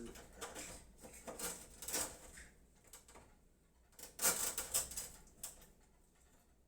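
Power-supply cables and connectors being handled while a PC is wired: irregular light clicks and rustles, with a louder cluster of clicks a little past the middle.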